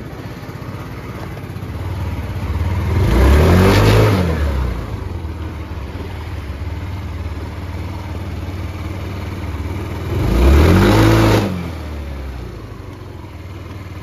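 Yamaha Cuxi 100 scooter's single-cylinder engine idling and blipped twice, about three seconds in and again about ten seconds in, the pitch rising and falling each time. It runs quietly with no abnormal drive noise, the worn torque-driver (rear pulley) assembly having been replaced.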